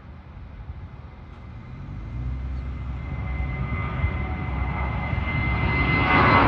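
Airplane engines growing steadily louder as the aircraft approaches, a rising rumble with a steady high whine on top.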